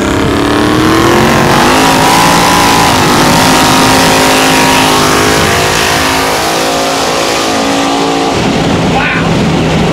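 Car engine accelerating hard at full throttle in a street race, heard from inside a following car: the engine note climbs over the first second or so and holds high. About eight seconds in it drops away to a steady low hum.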